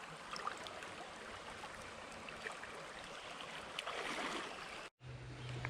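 Creek water running and trickling as a steady hiss, with a few faint ticks and a brief louder rush about four seconds in. Near the end the sound cuts out for an instant and a steady low hum sets in.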